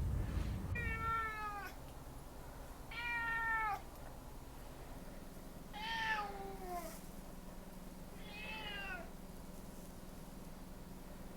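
A cat meowing four times, a few seconds apart; each meow is drawn out and falls in pitch.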